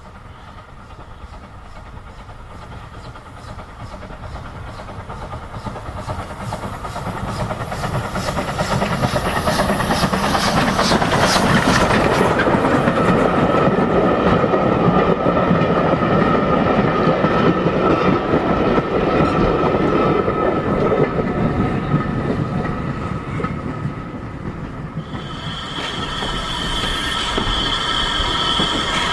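Steam-hauled railway carriage running along the line, heard from on board: a rumble of wheels on rail with clacking over the joints, getting louder over the first dozen seconds. A steady high metallic wheel squeal joins in near the end.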